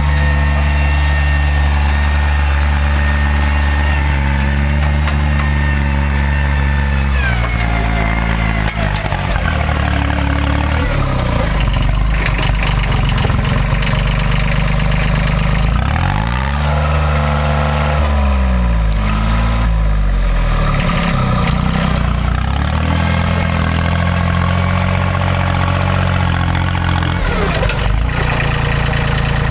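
Engine of a Timberjack forwarder running steadily. It drops in pitch about seven seconds in, then rises and falls several times around the middle and again near the end as it is revved up and down.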